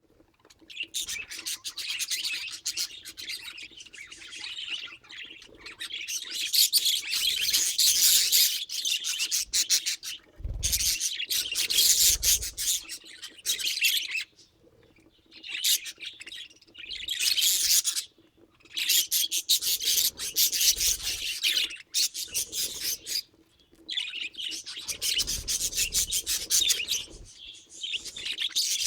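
Budgerigars chattering and warbling: rapid, high, scratchy chirps in bouts a few seconds long with short pauses between, over a faint steady hum.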